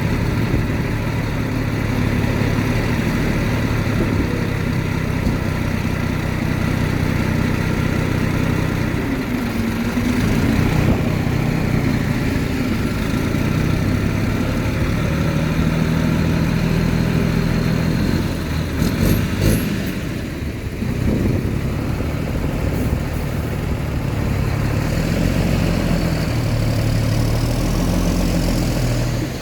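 Heavy diesel engine of earthmoving machinery running steadily, its pitch shifting up and down several times as the load changes. A few sharp knocks come about two-thirds of the way in.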